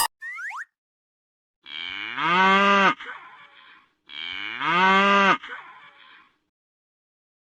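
Cattle mooing twice, the same long moo repeated about two and a half seconds apart, each ending abruptly. Just before them comes a brief rising whistle-like chirp.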